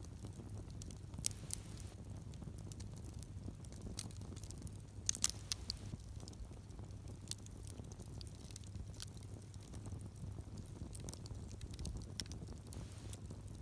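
Driftwood campfire crackling: scattered small pops and clicks, a couple of them sharper, about a second in and again around five seconds.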